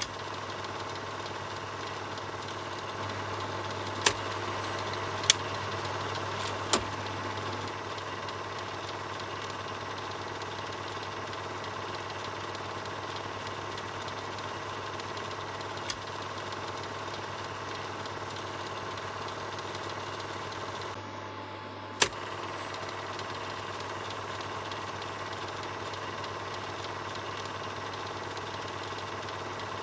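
Film projector running steadily, a continuous mechanical whirr over a low hum. A handful of sharp clicks stand out, three close together a few seconds in and two more later.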